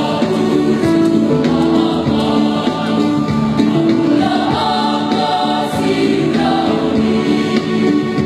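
A choir singing a song in several parts, the voices holding sustained notes together.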